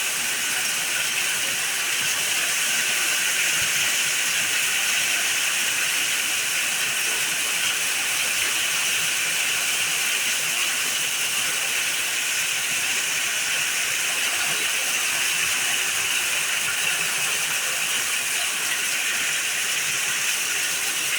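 Heavy storm rain pouring down steadily, a dense even hiss with no letup.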